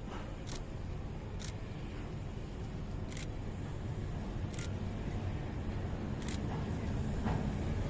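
Low rumble of an approaching train, growing steadily louder, with a sharp click every second or so.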